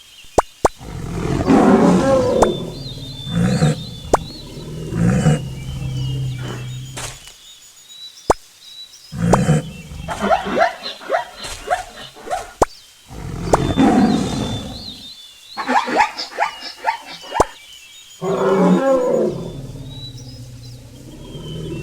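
A string of loud wild animal calls, deep and rough with some pitched tones, lasting a few seconds each and separated by abrupt cuts.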